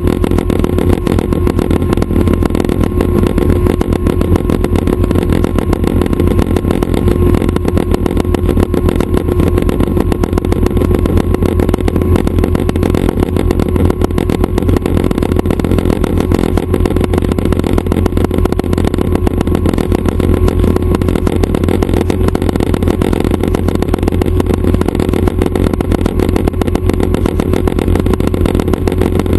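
Schweizer 269 light helicopter's piston engine and rotors running steadily and loudly, with a constant low drone and a steady mid-pitched tone that do not change.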